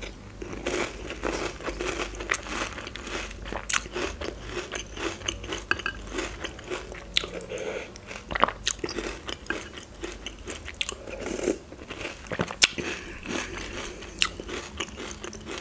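Close-miked crunching and chewing of a mouthful of START! Milk Pillows cereal pillows in milk, a steady run of irregular crisp crackles with a few sharper clicks.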